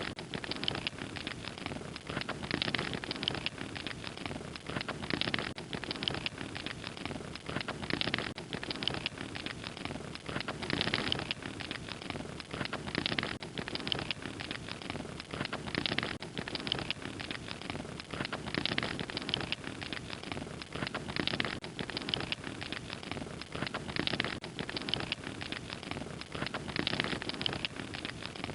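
Wood fire crackling steadily: a dense, unbroken run of small pops and snaps over a soft hiss.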